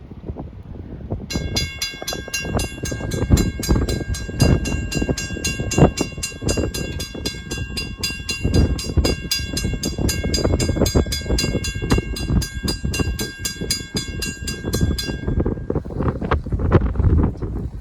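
Railroad grade-crossing bell ringing with rapid, even strikes, starting about a second in and stopping near the end. Under it runs a heavy low rumble with wind on the microphone.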